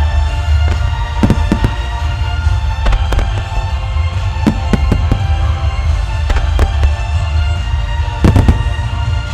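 A fireworks starmine barrage: many shells bursting in quick succession over a continuous deep rumble, with orchestral music playing throughout. The loudest cluster of bursts comes near the end.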